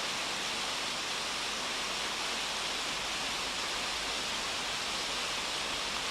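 Steady rush of running river water, an even hiss with no change in level.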